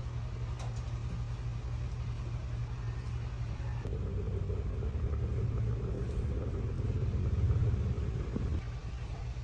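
A steady low rumble that swells louder from about four seconds in and drops back near the end.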